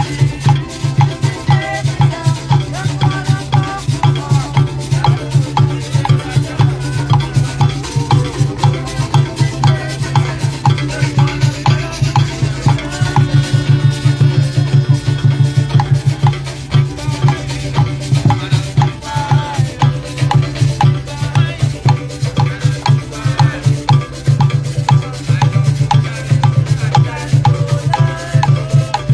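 Live percussion music: hand drums beaten in a fast, steady rhythm with maracas shaking along.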